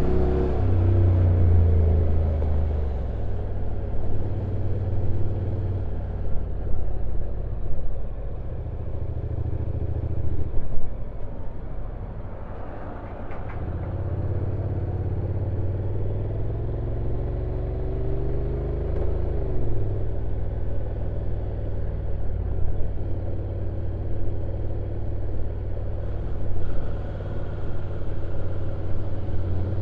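Honda NC750X DCT's parallel-twin engine running at low revs on a downhill ride, its note stepping up and down several times, with a brief louder burst about eleven seconds in. Wind and road noise run underneath.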